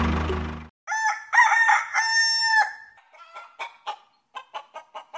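A rooster crowing once, in three drawn-out parts, then a run of short clucks.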